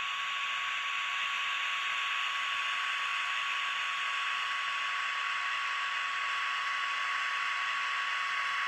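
Onboard sound of an N scale GG1 electric locomotive model playing through its tiny speaker: a steady hiss with a constant thin whine, the idling blower sound of an electric locomotive.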